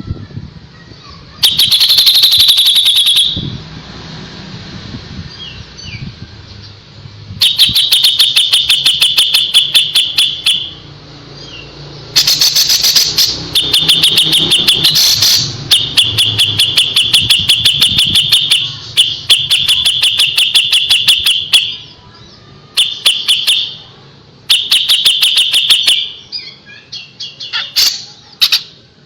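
A kapas tembak songbird singing its rapid-fire 'tembakan' song: fast trains of sharp ticking notes, many per second, in bursts of one to three seconds separated by short pauses.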